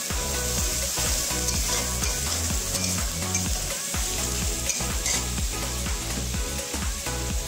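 Onion-garlic paste frying in oil in a kadai, sizzling steadily while a metal spatula stirs it around the pan.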